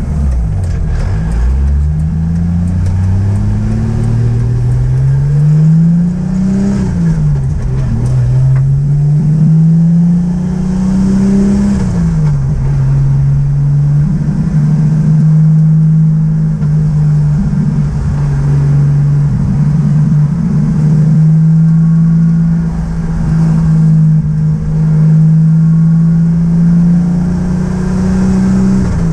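Toyota 2JZ straight-six in a BMW E30, breathing through a 3-inch stainless custom exhaust, heard from inside the car's cabin while driving. It accelerates, with the engine note rising, and drops in pitch at upshifts about 7 and 12 seconds in. After that it cruises at a steady, slightly rising drone.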